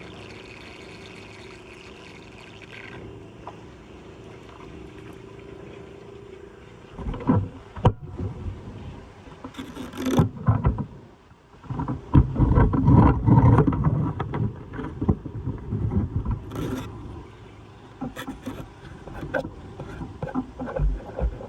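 Floodwater rushing steadily at a blocked street drain, then, from about seven seconds in, irregular scraping, knocking and splashing as debris is worked loose from the drain.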